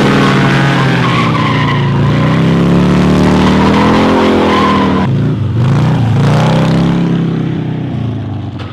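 A stunt car's engine revving hard with its tyres squealing in a skid, the revs swinging up and down as it spins. The revs drop about five seconds in, climb again, then fade near the end.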